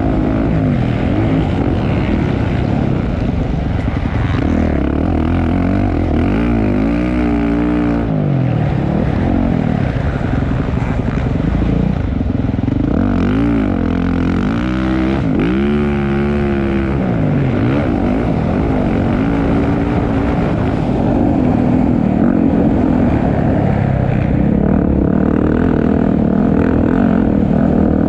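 Motocross bike engines racing, revving hard and falling back again and again as the bikes accelerate and shift, the pitch sweeping up and down.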